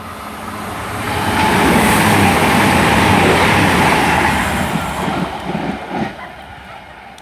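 Class 221 Super Voyager diesel-electric multiple unit passing through non-stop at high speed: a rush of noise that builds over the first second and a half, holds for a few seconds, then fades away.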